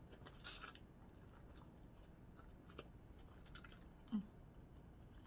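Faint eating sounds: chewing with a few small scattered clicks, and a brief low hum about four seconds in.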